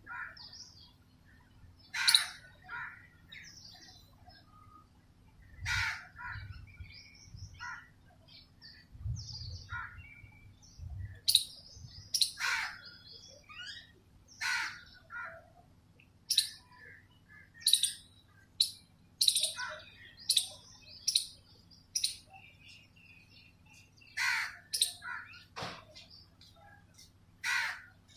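Birds calling outdoors: short, harsh, irregular calls, many in quick succession throughout.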